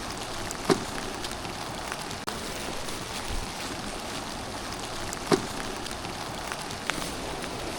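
Steady rain falling, an even hiss, with a few sharp taps on top: two loud ones about a second in and about five seconds in, and a lighter one near the end.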